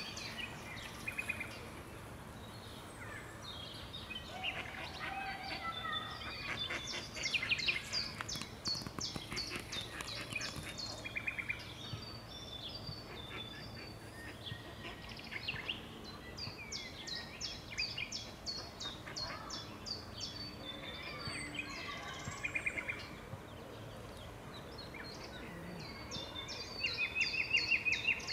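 Birds chirping, with rapid runs of repeated high notes throughout and a louder flurry near the end, over a steady low background hum.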